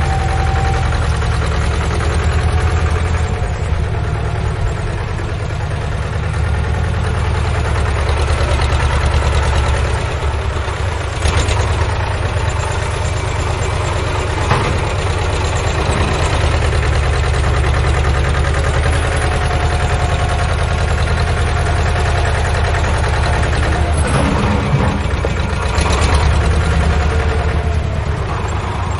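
Tractor engine idling steadily with a low, rapid chugging.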